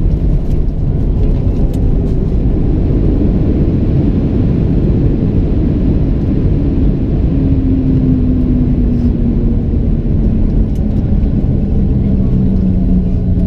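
Cabin noise of a Boeing 737-700 slowing after landing: a loud, steady rumble from its CFM56-7B jet engines and the airframe, with an engine whine that falls steadily in pitch over the second half as the aircraft decelerates.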